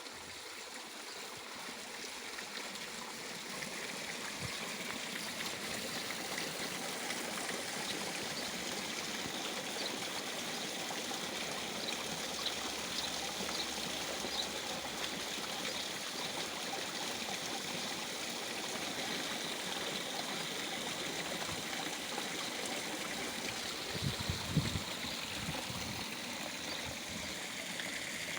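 Garden waterfall running into a koi pond: a steady rush of falling, trickling water that swells a little over the first few seconds. A couple of brief low thumps come near the end.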